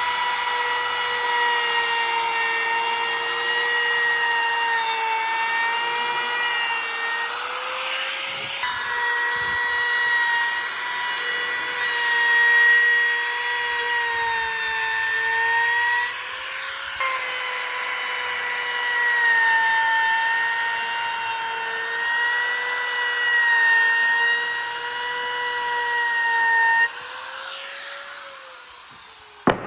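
Handheld electric power tool running on wood or epoxy: a steady motor whine over a grinding hiss, broken briefly twice. Near the end it is switched off and the whine falls away as it spins down.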